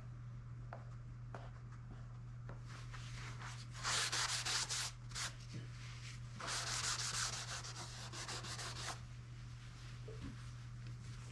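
Rubbing wipes across the plastic covering film of a foam RC airplane wing, cleaning it with alcohol: two stretches of scrubbing, one about four seconds in and a longer one a couple of seconds later.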